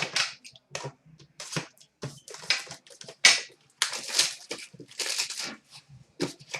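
Foil hockey card pack wrappers tearing and crinkling in a run of short, irregular rustles.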